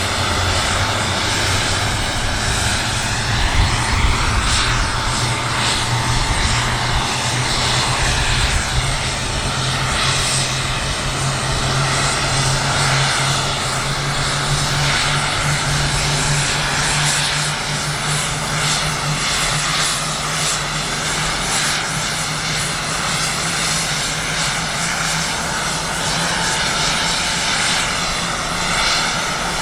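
Boeing C-17 Globemaster III's Pratt & Whitney F117 turbofan engines running, a steady loud noise with a low hum that moves up slightly in pitch around ten seconds in.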